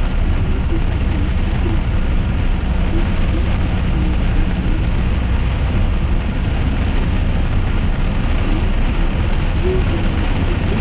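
Steady rain on a car, heard from inside the moving car together with the low hum of the engine and tyres on the wet road.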